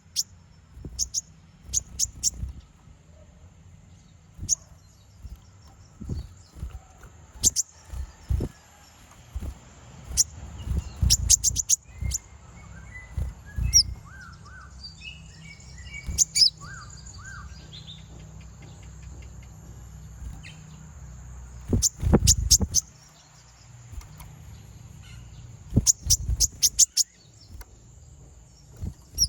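Konin (purple-throated sunbird) calling: quick runs of very short, sharp, high chips in clusters, with some softer twittering in the middle. This is the call used to challenge rival konin. A steady high whine runs behind it, with low rumbling thumps now and then, the strongest a little past the middle.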